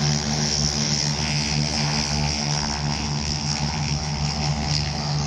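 SNJ (T-6 Texan) trainers' radial engines and propellers droning steadily overhead, loud, with a low throb that pulses a few times a second.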